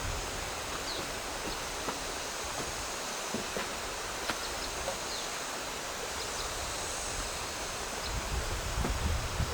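Outdoor rural ambience: a steady hiss with a few faint, short high chirps and scattered light clicks, and a low rumble coming up near the end.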